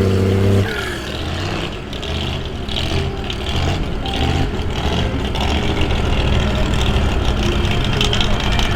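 Off-road vehicle engine held at high revs, dropping off sharply about half a second in, then running on at lower, uneven revs.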